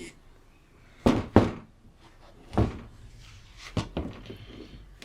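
A few thuds and knocks of a small sealed lead-acid UPS battery being handled and set down on a hard surface: two close together about a second in, then single ones near the middle and later.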